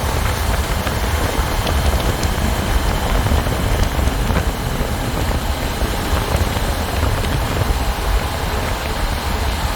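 Motorcycle on the move: a steady engine drone mixed with wind rushing over the microphone.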